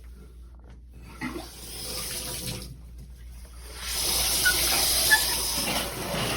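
Shower water turned on and spraying from a NearMoon stainless steel rain shower head: a hiss starts about a second in, dips briefly around three seconds, then comes on at full flow from about four seconds.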